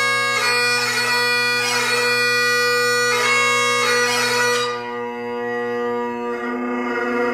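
Great Highland bagpipe played solo: steady drones under the chanter's melody, ornamented with quick grace notes. About two-thirds of the way in the bright high notes stop and a lower sustained sound carries on.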